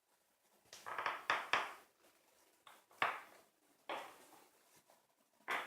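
Short knocks and clacks of a Daewoo FN-15B2B mini fridge being handled. A quick cluster comes about a second in, then single knocks at roughly one-second spacing.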